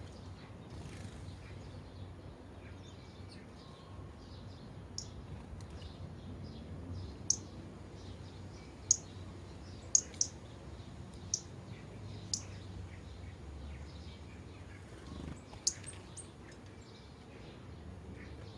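Sparrows chirping: about eight short, sharp, high chirps, singly and in quick pairs, over a faint steady low rumble.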